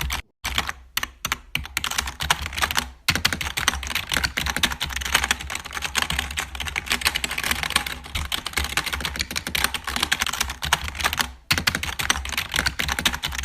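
Rapid, continuous clicking and tapping like typing, with brief pauses about a third of a second in, around 3 s and around 11.5 s, over a steady low hum.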